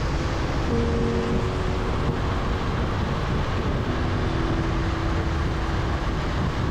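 Honda CBR650R under way: a steady, loud rush of wind and road noise over the rider's microphone, with the inline-four engine's hum underneath, its pitch stepping a little now and then.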